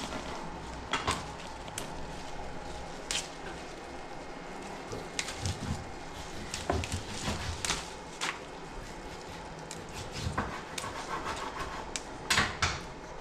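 Irregular knocks and clicks of a kitchen knife cutting food on a board, with a few duller thuds in the middle.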